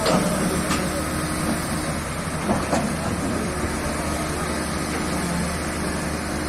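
Hitachi ZX excavator's diesel engine running steadily, with a few short knocks in the first three seconds.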